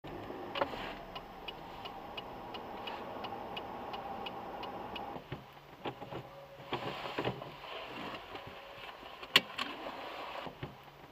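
Car interior running noise with a car's turn-signal indicator ticking evenly, about three ticks a second, for the first half. Then several scattered clicks, and a single sharp bang near the end, the loudest sound.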